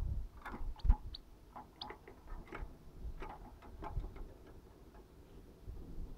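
A small bird at a sunflower-seed feeder: irregular light clicks and taps, a few brief high chirps in the first two seconds, and one louder knock about a second in.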